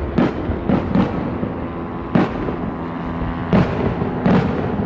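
Fireworks going off overhead: a string of sharp booms and cracks at irregular intervals, about eight in under five seconds.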